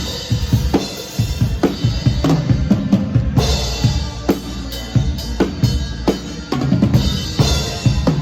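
Live band music with a drum kit to the fore: bass drum and snare hitting a steady beat over sustained instrument tones, picked up by a microphone in the room.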